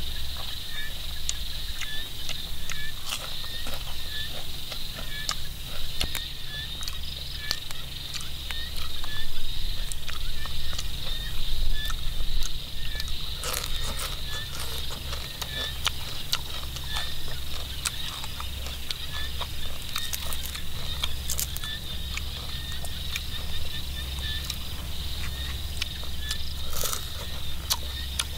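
Crisp crunching bites and chewing of deep-fried giant water bugs, as sharp cracks now and then. Underneath runs a steady chorus of high-pitched animal calls, repeating about twice a second.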